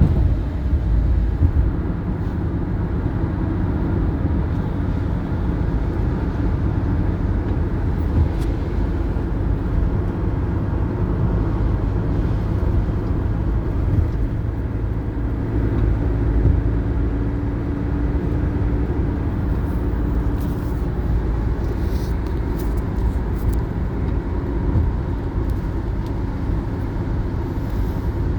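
Steady low rumble of a running vehicle, with no pauses.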